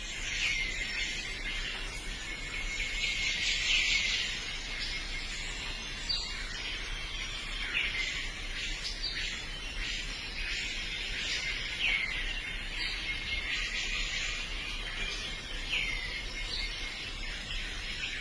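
Birds calling in a forest ambience, a curved chirping call every two to three seconds over a dense, steady high-pitched hiss.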